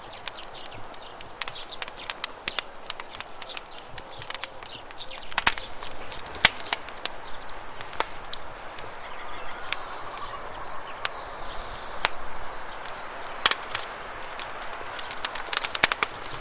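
Campfire crackling with frequent sharp, irregular pops over a steady rush of flowing water. A bird gives a high, rapidly repeated call for a few seconds in the middle.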